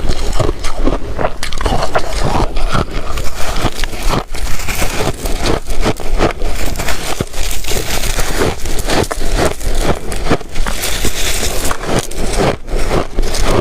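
Shaved ice being bitten and chewed: a dense, irregular crunching and crackling.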